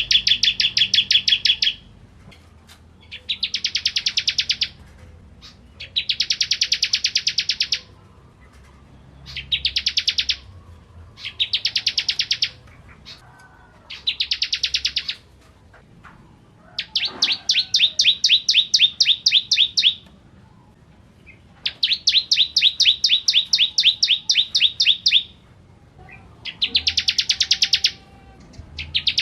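Bar-winged prinia (ciblek kristal) singing: a run of high-pitched rapid trills of quickly repeated notes, each phrase lasting one to three seconds, repeated about nine times with short pauses between.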